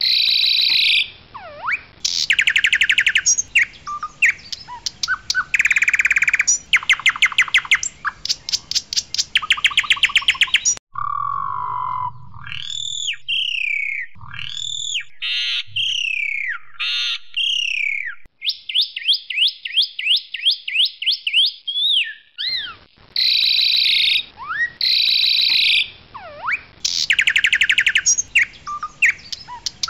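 Asian pied starling (jalak suren putih) singing loudly: repeated harsh, grating notes and rapid rattling trills, with a stretch of clear, down-sliding whistles about midway and a fast run of ticks after it.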